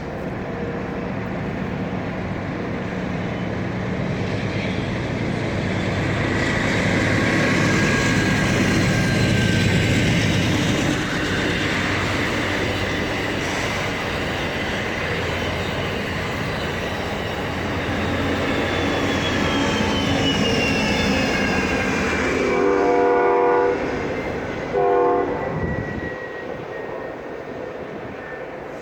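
A train rumbling past on the rails, its rumble swelling and then easing off. A locomotive horn sounds near the end: one longer blast, then a short one.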